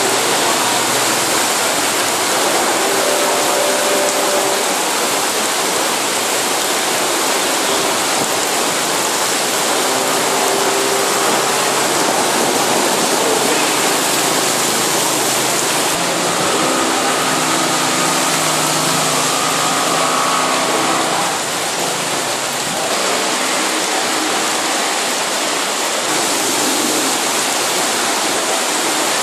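Very heavy rain pouring down onto a flooded street: a loud, steady hiss. The note of passing motorbikes rises through it now and then, longest about two-thirds of the way in.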